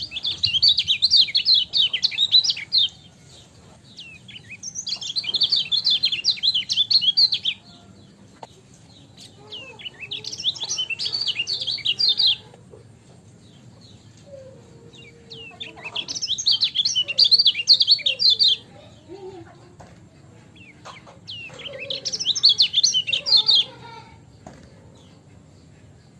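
Kecial kuning white-eye singing in five bursts of rapid, high chirping, each about two and a half seconds long, with pauses of a few seconds between them.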